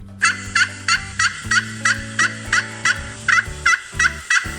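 Wild turkey gobbling: a fast, even run of short repeated calls, about three a second, over low steady held tones.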